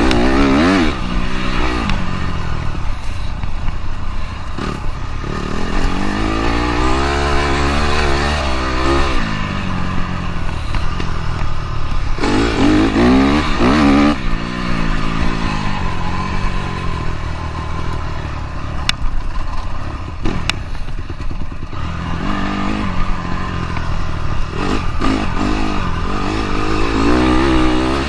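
Dirt bike engine being ridden, its pitch climbing and dropping back in several surges of throttle, over a steady rumble.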